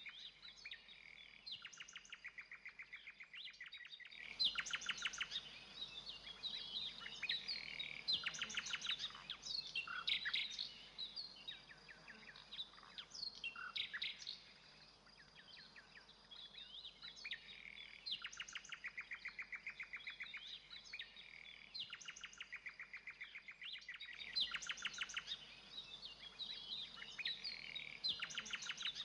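Several songbirds singing: rapid repeated trills and chirps over a faint steady high whine, fuller about four seconds in. The same stretch of song seems to come round again about twenty seconds later.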